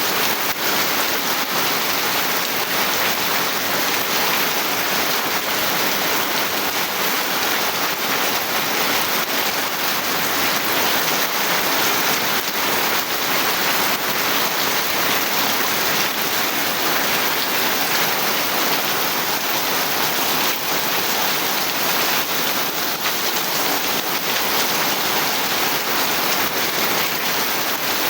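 Steady rain falling, an even, unbroken hiss with no letup.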